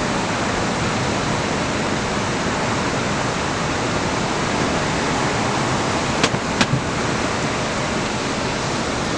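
Strong wind rushing steadily past the microphone, with two brief clicks a moment apart about six seconds in.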